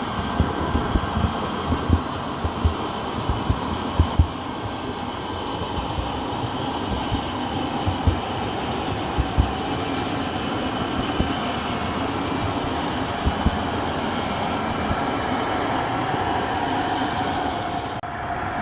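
Train running on rails: a steady rumble with irregular sharp knocks, mostly in the first half, and a faint steady tone coming in near the end.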